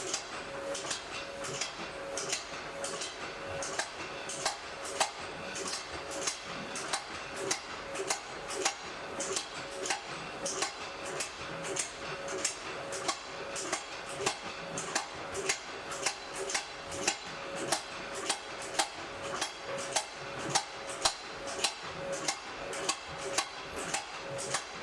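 Blacksmith's hammer striking metal on an anvil in a steady rhythm of about two blows a second, with the blows growing louder later on and a steady ringing tone beneath them.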